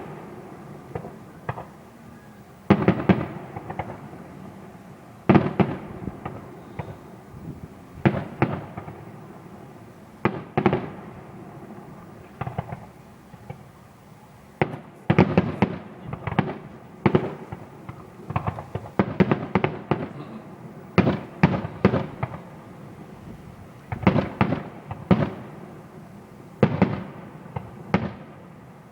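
Fireworks display: aerial shells bursting in an irregular barrage, single booms and quick crackling clusters, with a rumble carrying on between the bangs.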